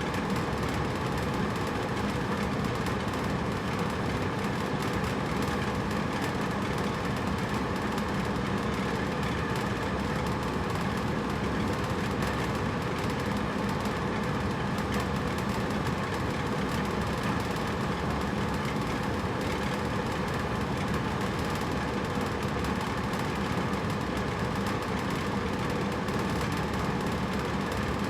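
Hotel room air conditioner running steadily: an even blowing hum with a faint low drone.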